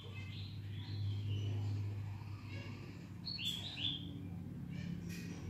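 Birds chirping in short, falling calls, the loudest a quick pair about three and a half seconds in, over a steady low hum.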